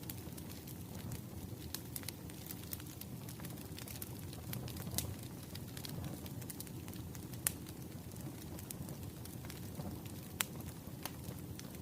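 Wood fire crackling: a steady low rumble of burning with scattered sharp pops, two louder ones in the second half.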